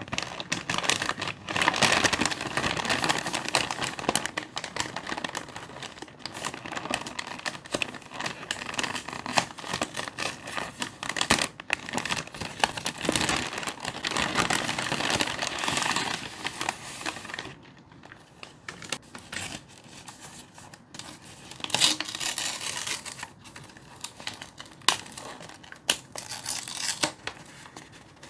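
Wrapping being handled during an unboxing, crinkling and rustling almost continuously. From about two-thirds through it turns quieter and more broken, with scattered rustles and small clicks.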